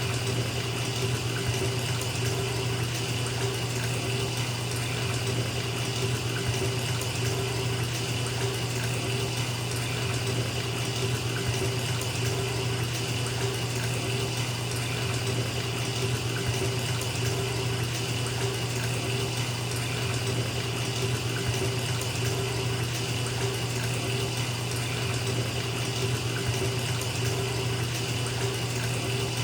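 Water running steadily from a bathtub tap into a filling tub.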